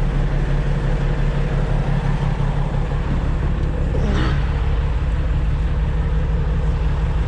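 Loaded dump truck's engine running steadily under load as it drives up the road.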